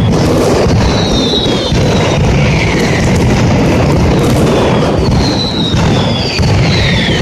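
Mascletà barrage of firecrackers: a dense, continuous rumble of bangs, with several whistles falling in pitch over it.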